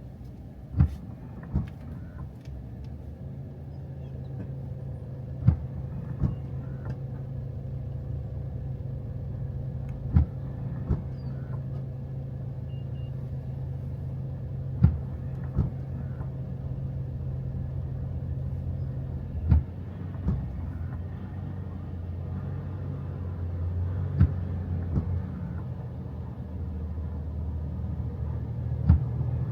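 Steady low rumble of a car driving, heard from inside the cabin. A pair of sharp knocks comes about every five seconds, typical of windshield wipers on an intermittent setting in the rain.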